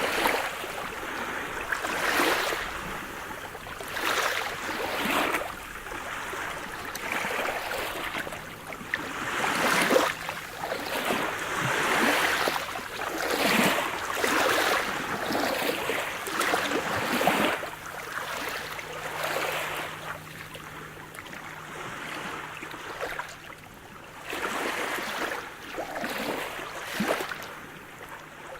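Sea surf: waves breaking and washing in, in uneven surges every second or two over a constant wash of water.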